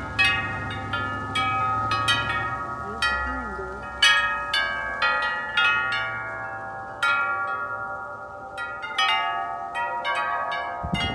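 Wind chimes blown by the wind, struck irregularly and ringing on in overlapping tones.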